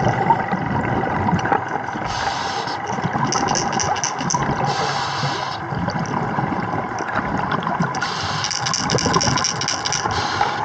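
Dive boat's engine running steadily amid water noise, with three short bursts of hiss.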